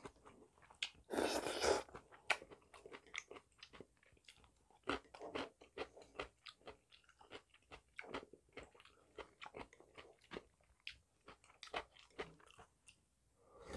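A person chewing a mouthful of noodle soup close to a clip-on microphone: soft wet chewing and irregular small mouth clicks throughout, with a short breathy rush about a second in.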